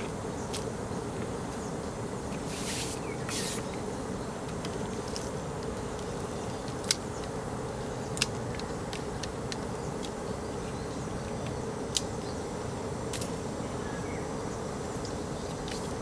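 Portable gas burner running steadily under a frying pan as it heats, with a few sharp clicks scattered through.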